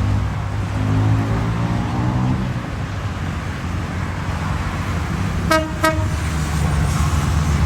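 Diesel train engine rumbling, with two short horn toots in quick succession a little after five seconds in.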